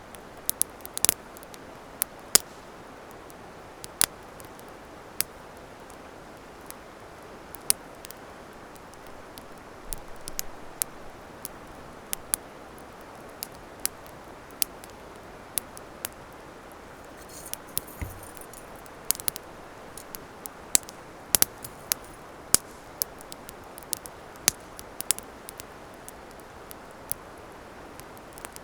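Wood campfire burning: irregular sharp pops and snaps over a steady low hiss.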